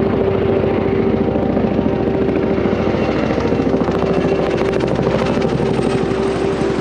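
CH-47 Chinook tandem-rotor helicopter running: rapid, even rotor chop over a steady, loud tone from its twin turboshaft engines and drive.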